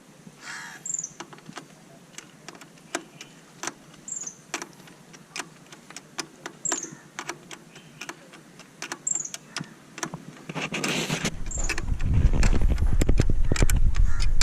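Scattered metallic clicks and taps, then, about ten and a half seconds in, the starter motor of a Mahindra 475 DI tractor cranking its diesel engine in a loud, low, pulsing run. The starter is wired in directly rather than through the ignition.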